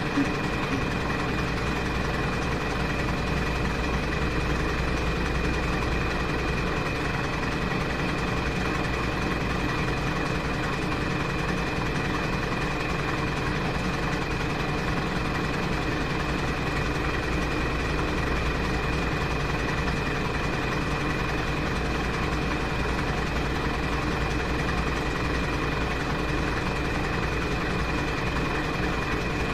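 Washing machine running through its wash cycle: a steady motor hum with a constant high whine over a low rumble.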